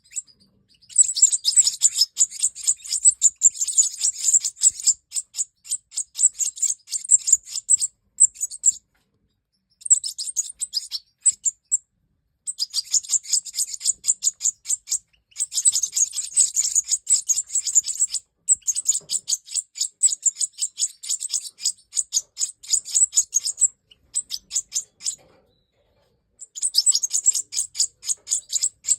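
Major goldfinch (European goldfinch of the large Siberian form) singing: long phrases of rapid, high twittering, broken by short pauses.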